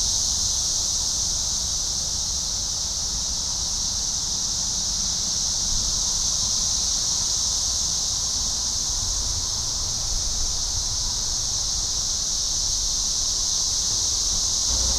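A chorus of cicadas making a steady, high-pitched drone that never lets up, with a low rumble underneath.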